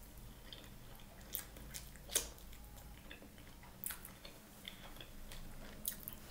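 A person chewing a mouthful of steamed shrimp dumpling: faint, soft wet chewing with scattered short mouth clicks, the sharpest about two seconds in.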